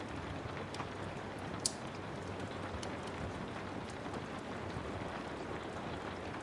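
Steady rain with a wood fire crackling: scattered small snaps over the even hiss of the rain, and one sharper pop about a second and a half in.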